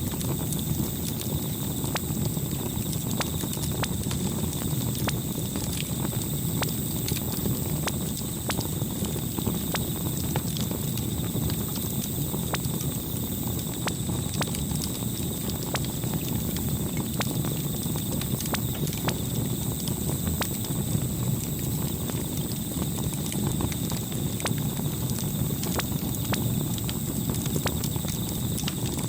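Campfire burning, with a steady low rumble and many small irregular crackles and pops.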